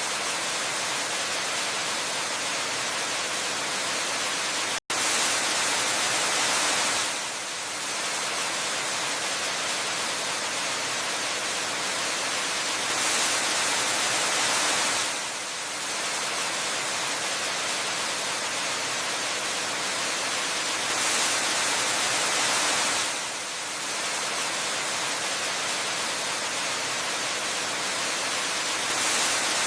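Steady rush of a waterfall: a dense, hissing noise weighted toward the high end, gently swelling and easing about every eight seconds. About five seconds in there is a split-second break in the sound.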